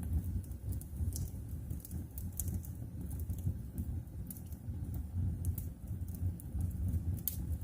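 Wood fire burning in a fireplace: a low steady rumble of flames with sharp crackles and pops at irregular moments, several of them scattered through, the crispest near the end.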